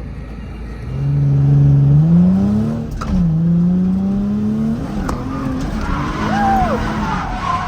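Drift car's engine running hard at high revs, climbing and dropping in pitch as the throttle is worked, with a brief tyre squeal near the end.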